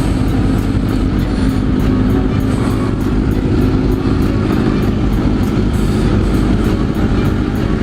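Yamaha FZ-09 (MT-09) three-cylinder engine running at a steady speed while cruising, with wind rush on the microphone.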